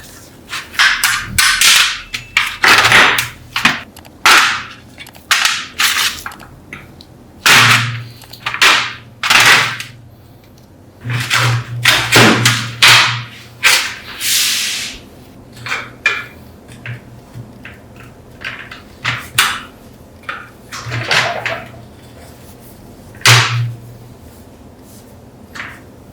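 Irregular series of sharp knocks and longer scraping strokes from hand-tool work in a workshop, loudest in the first half and sparser toward the end.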